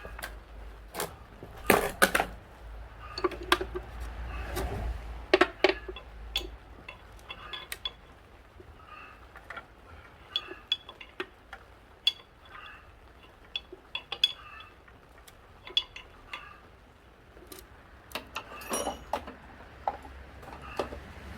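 Metal tools and parts clinking and knocking during hand work on machinery: irregular sharp clicks and taps, some with a brief metallic ring, louder clusters about two seconds in, around five seconds and near the end.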